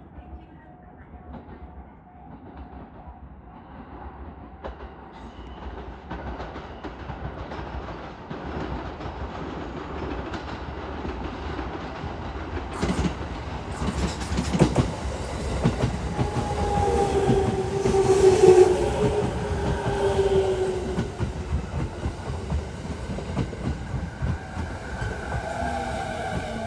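JR 209 series 2100 subseries electric multiple unit pulling into a station platform, growing steadily louder as it comes in. From about halfway, its wheels clack rhythmically over the rail joints, and a steady whine rises over the clacking for a few seconds past the middle.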